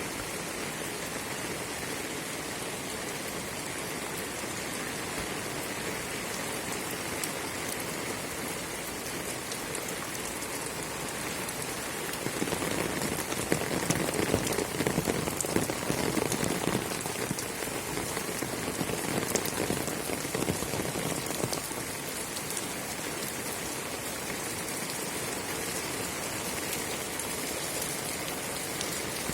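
Steady rain falling, a dense hiss of drops on surfaces, growing louder for a few seconds about halfway through.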